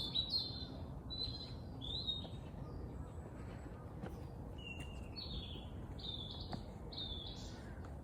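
Songbirds chirping outdoors in spring: short, high chirps repeated every half second or so. A steady low background noise runs underneath.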